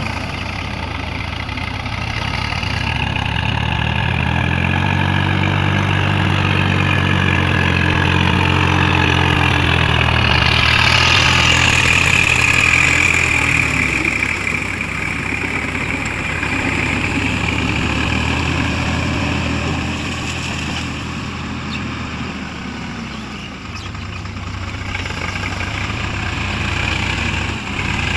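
Tractor diesel engine labouring in a muddy field, its revs rising and falling, with a high whine that climbs and then falls away around the middle.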